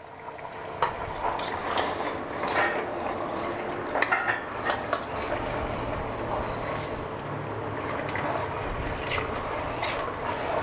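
Raw mutton pieces sizzling in hot oil with onions and ginger-garlic paste as they are stirred, with scattered clinks and scrapes of a metal spoon against the pot.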